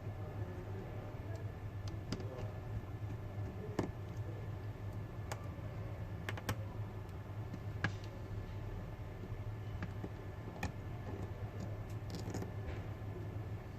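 Scattered light clicks and taps, a dozen or so at irregular intervals, over a steady low hum.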